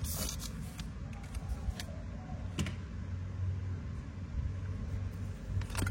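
A few sharp metallic clicks from a Zippo lighter being handled, the strongest near the end, over a steady low hum.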